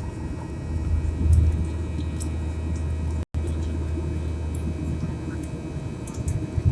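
Airliner engine noise heard from inside the passenger cabin: a steady low hum and rumble, broken by a brief silent gap about three seconds in.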